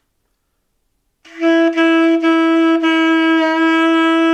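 Alto saxophone sounding one long, steady held note that starts about a second in.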